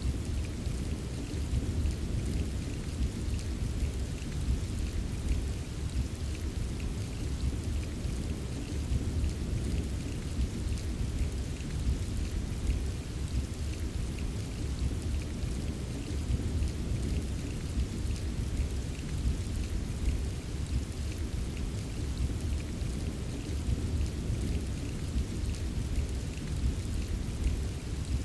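Steady heavy rain with a continuous low rumble underneath and fine drop ticks scattered on top, unchanging throughout.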